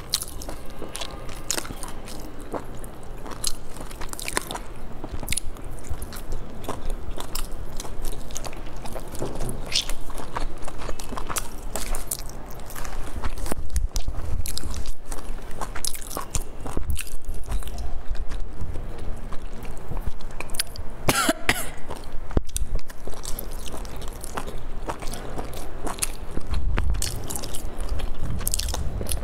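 Close-miked mouth sounds of a person eating boiled dumplings: soft chewing with many small wet clicks. About two-thirds of the way through there is one louder, longer noisy sound, which could be a cough.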